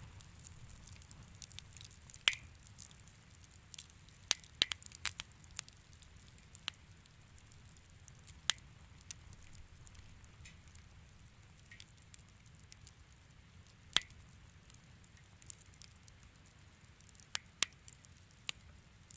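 Wood fire in a fireplace crackling, with irregular small pops and a few sharper snaps over a low, steady rumble of the flames.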